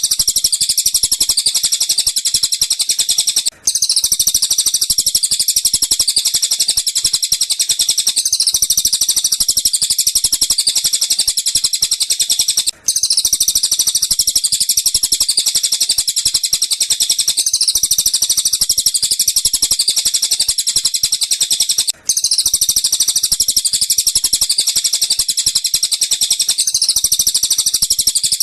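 Recorded birdsong of tengkek buto and cililin calls, played as a lovebird training track: a continuous, very rapid high-pitched chattering trill that repeats as a loop about every four and a half seconds, cutting out for an instant three times.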